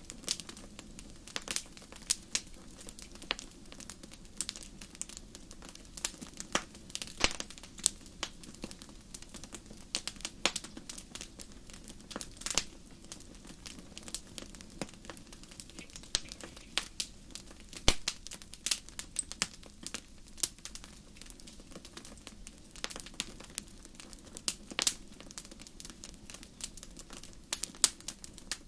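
Wood fire crackling: irregular sharp pops and snaps, a few louder ones, over a low steady hiss of burning.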